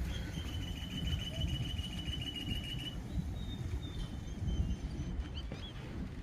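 A small bird trills on one high pitch for about three seconds, then gives a few short high chirps, over a low outdoor rumble.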